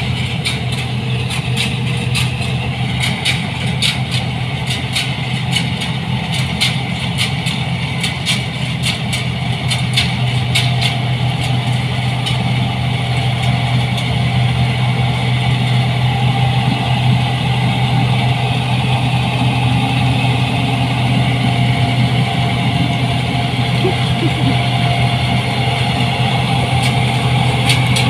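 New Holland 8060 combine harvester running steadily, its engine giving a strong, even low hum, with a scatter of sharp clicks over roughly the first half that thin out after about ten seconds.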